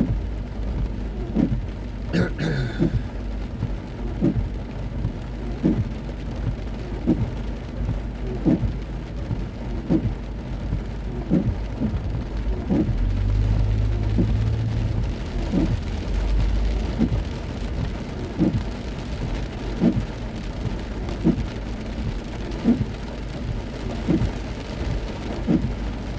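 Heavy rain falling on a car being driven, over a low road and engine rumble that swells for a few seconds midway. A short knock repeats regularly, about every second and a half, and there is a single sharp click about two seconds in.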